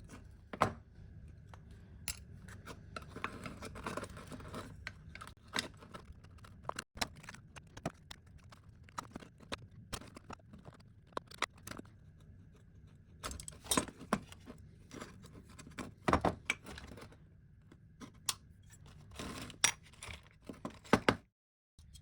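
Small metal parts being handled on a work surface: irregular clinks, taps and scrapes with a few sharper knocks, over a faint steady background hum.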